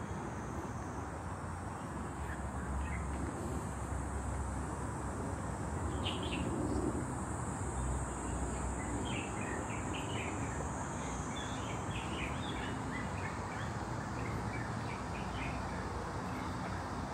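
Small birds chirping in many short calls, most of them from about six seconds in, over a steady hum of outdoor background noise.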